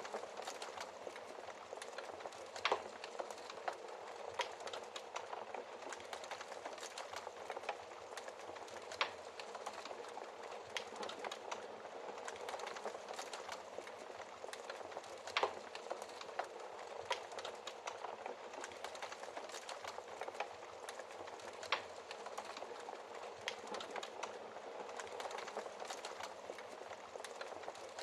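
Wood fire burning in a fireplace: a steady soft hiss with irregular crackles and sharper pops, a few louder snaps standing out.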